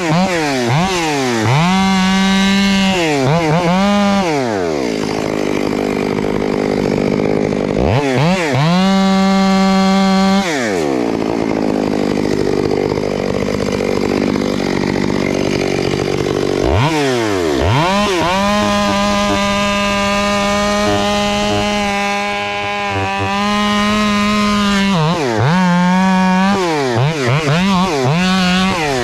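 Two-stroke chainsaw running: blipped up and down, settling to idle twice, then held at high revs for several seconds about two-thirds of the way through, with more quick blips near the end.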